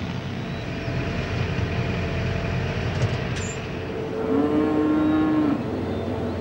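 A feed wagon running steadily as it dispenses feed along the barn, while a cow moos once, a long, even call about four seconds in.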